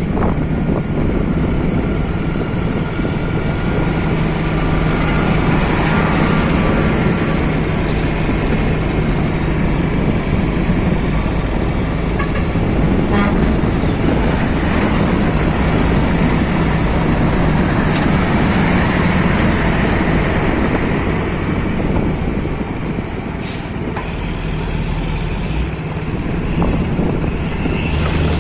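Large diesel truck engine running steadily.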